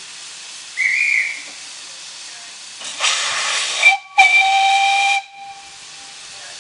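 Steam locomotive letting off a loud burst of steam hiss about three seconds in, then its whistle blowing one steady note for about a second over the hiss before cutting off.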